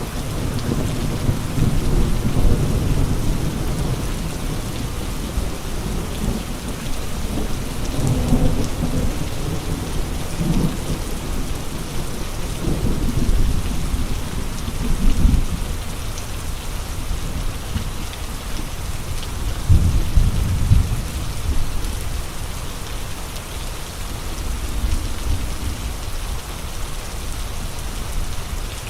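Rain and gusting wind: a steady hiss of rain with deep rumbling surges that swell and fade several times, the strongest about 20 seconds in.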